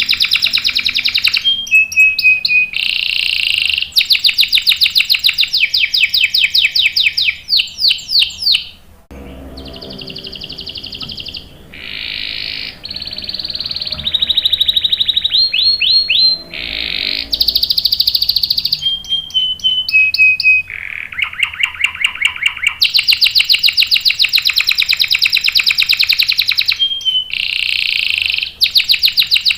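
Domestic canary singing a long rolling song: fast trills of rapidly repeated high notes, each held for a second or more, then switching to the next trill with brief breaks. The song drops quieter for a few seconds a third of the way in, then resumes at full strength.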